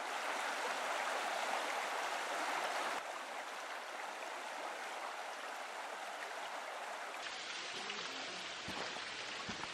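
Steady rush of flowing stream water, changing abruptly at about 3 s and again near 7 s as the shot changes, with a few faint knocks in the last couple of seconds.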